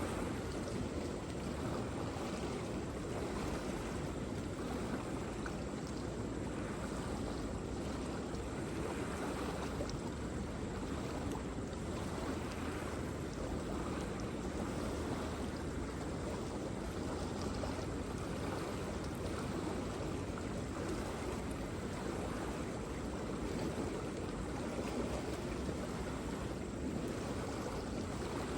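Waterfall: steady rushing of falling water, an even wash of noise with no breaks.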